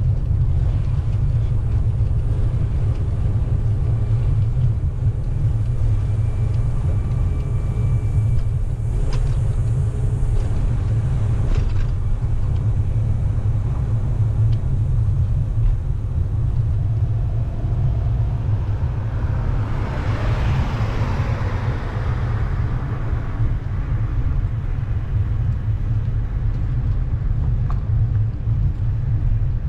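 Steady low wind rumble on the microphone of a bicycle rider, with the rush of a passing vehicle swelling and fading about twenty seconds in.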